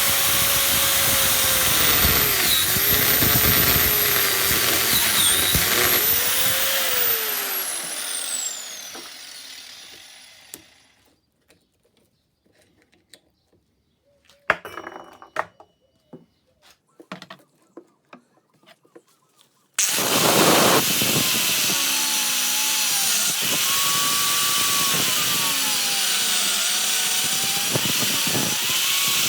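Grinder cutting into a seized steel CV joint, its motor pitch dipping and recovering as it bites under load. It is switched off and winds down over a few seconds, a few light knocks and clicks follow in the quiet, then it starts again abruptly about two-thirds of the way through and cuts on.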